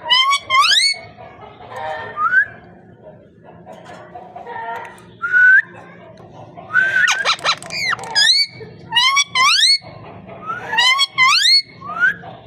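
Parrot whistling: short, rising whistled notes, repeated in quick clusters with softer chatter between them.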